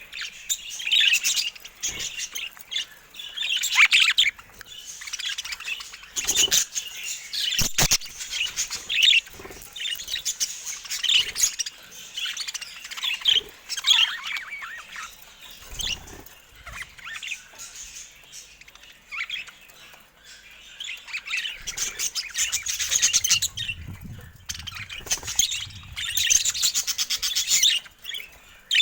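Budgerigars chattering: a continuous run of quick chirps and warbles, with a few sharp taps about a quarter of the way in.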